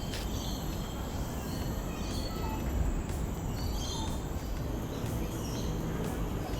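Birds chirping in short, scattered high calls over a steady low rumble of background noise.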